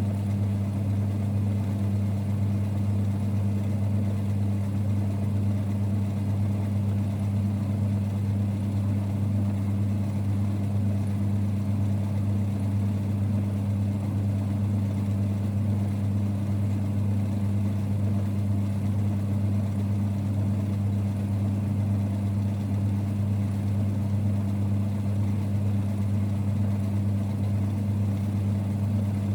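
1946 Boxford lathe running with a steady, even low rumble and hum that does not change.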